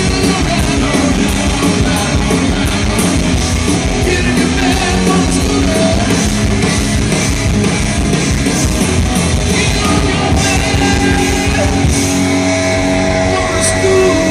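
Live rock band playing loud, with electric guitar, drums and some singing; near the end the guitar holds long sustained notes.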